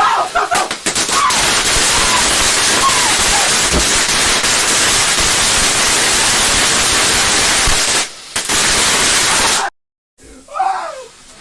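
Firework fountain spraying sparks: a loud, continuous crackling hiss that starts with a few sharp cracks, dips briefly near the end, and then cuts off abruptly.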